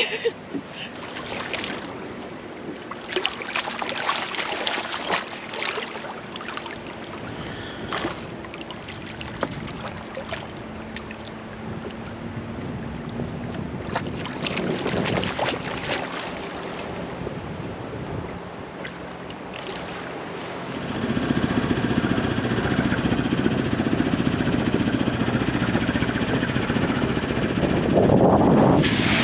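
Water and wind sounds on the water, with scattered small splashes and knocks over a low steady hum. About two-thirds of the way through, a louder steady rush of wind on the microphone and waves sets in.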